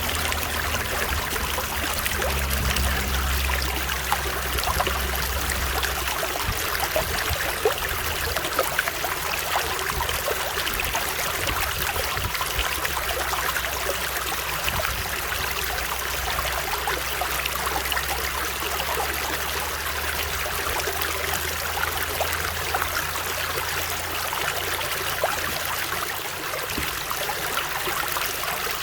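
Stream water flowing steadily, with constant splashing and trickling. A low rumble sits underneath, strongest in the first few seconds and fading away later on.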